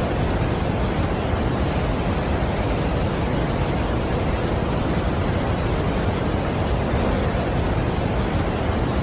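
Niagara Falls: water pouring over the falls in a steady, unbroken rush, heaviest in the low end.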